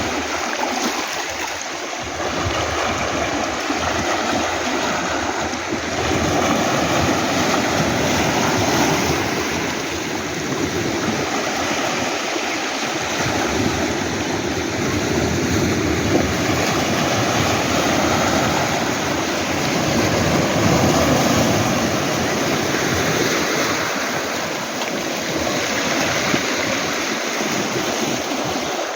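Sea waves breaking and washing over a beach of round pebbles, a continuous rushing wash that swells and eases every few seconds.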